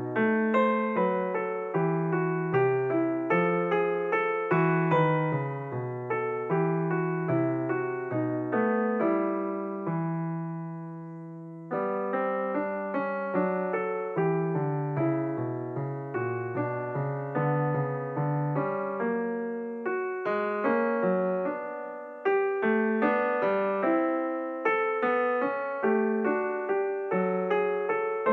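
Solo piano music: a steady run of struck notes and chords, with one chord held and left to die away around ten seconds in before the playing picks up again.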